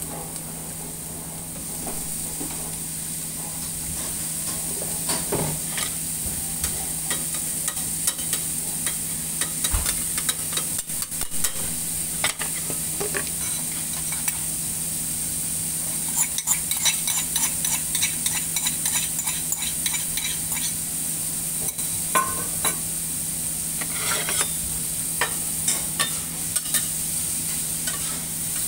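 Diced vegetables and beef frying on a flat steel teppan griddle, a steady sizzle. Scattered sharp clicks and scrapes of a cooking utensil on the steel plate run through it, over a steady low hum.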